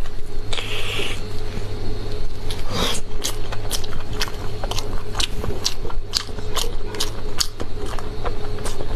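Close-miked wet chewing and biting of soft braised sheep stomach stuffed with brain, with many quick mouth clicks and smacks. A steady low hum runs underneath.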